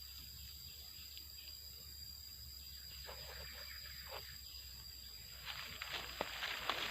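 A steady high-pitched insect drone, with rustling and scraping starting about three seconds in and a few sharp clicks near the end.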